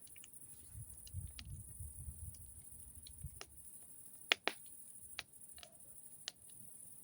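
Campfire crackling: irregular sharp pops and snaps of burning wood, about a dozen in all, the loudest two close together just past the middle, over a soft low rumble in the first half.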